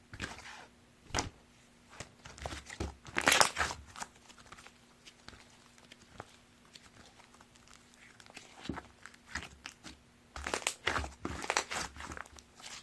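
Hands squishing, pressing and stretching a soft butter slime, giving sticky crackles and small clicking pops in two busy bursts, the louder one about three seconds in and another near the end, with a quieter stretch between.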